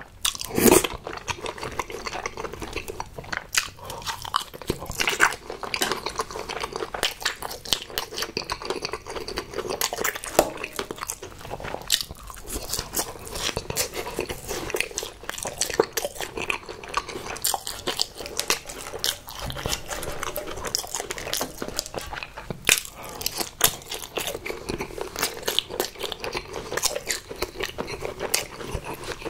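Close-up mouth sounds of a person biting and chewing spicy tteokbokki fish cake and rice cakes. A loud bite comes about a second in, then a steady run of small chewing clicks and smacks.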